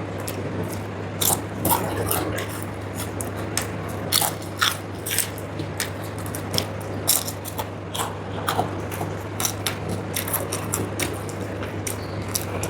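Close-up chewing and biting of crunchy food, with sharp irregular crunches one to three times a second, over a steady low hum.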